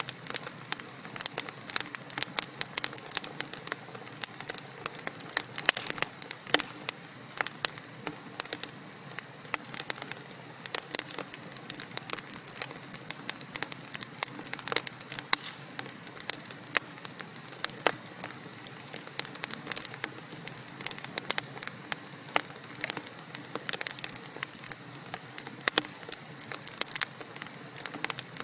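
Wood fire in a fireplace burning steadily, with dense, irregular crackles and pops from the logs over a soft hiss.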